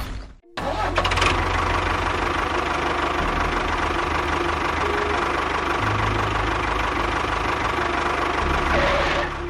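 A small engine running steadily with a rapid low pulsing. It starts about half a second in and dies away near the end.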